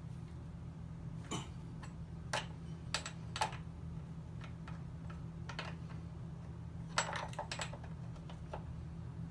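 A scattered series of light clicks and taps, like parts and tools being handled, over a steady low hum.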